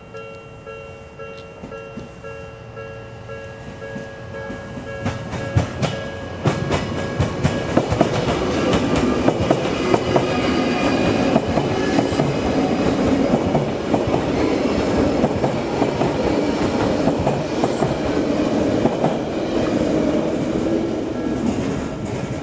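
Japanese level-crossing warning bell ringing steadily, then an Odakyu Line electric train passes through the crossing from about six seconds in, loud, with wheels clattering over rail joints while the bell keeps ringing.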